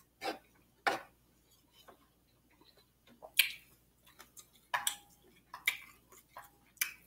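A person chewing food with wet mouth smacks: a dozen or so short clicks at uneven intervals.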